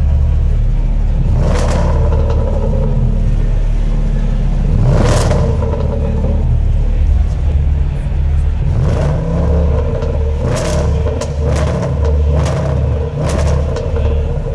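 Range Rover Sport SVR's supercharged 5.0-litre V8 revved in repeated blips, a deep rumble that surges and falls again and again, with sharp cracks from the exhaust several times.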